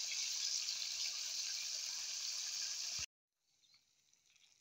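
Dried fish frying in hot oil in a wok: a steady sizzle that cuts off suddenly about three seconds in.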